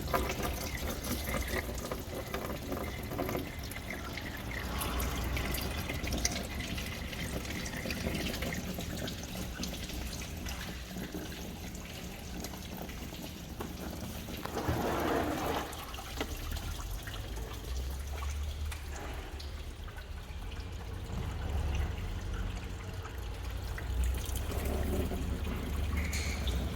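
Coolant water draining out of a car's cooling system in a steady trickling, splashing stream, with a louder surge about halfway through. The water is very dark, a sign that the cooling system needs flushing.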